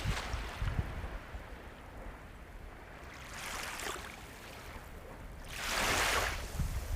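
Ocean waves breaking and washing up the shore over a steady low rumble. A smaller wash comes about halfway through, and a louder wave surges in near the end.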